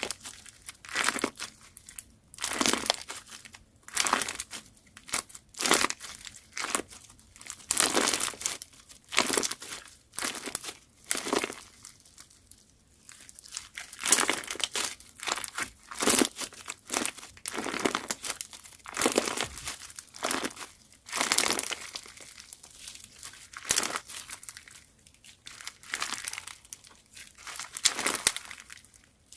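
Slime being pressed and squeezed by hand, giving a crinkly, crackling crunch roughly once a second.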